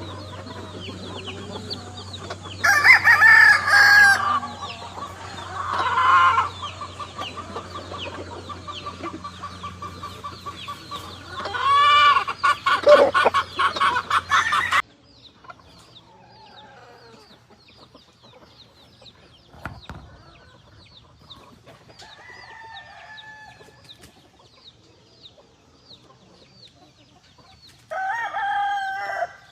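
Gamefowl roosters crowing several times, with clucking between the crows.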